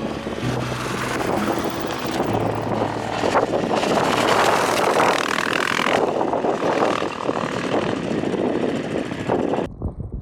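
Trail motorcycle engine running under way with heavy wind rush over the microphone, loudest in the middle; it cuts off abruptly near the end to a quieter sound.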